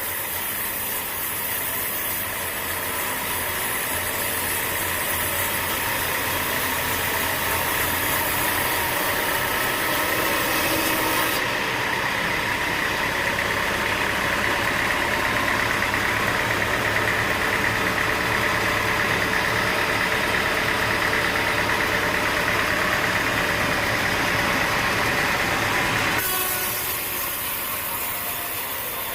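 Sawmill machinery running steadily. It grows louder through the middle and drops back suddenly near the end.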